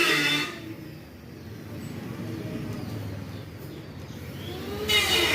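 A voice calling a drawn-out 'mithu' at the very start and again near the end, with a low steady background rumble in between.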